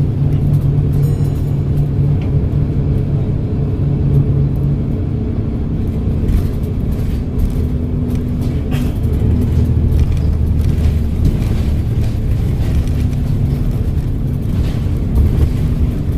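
Volvo B7RLE bus's six-cylinder diesel engine running under way. Its note drops about five seconds in and settles lower a few seconds later.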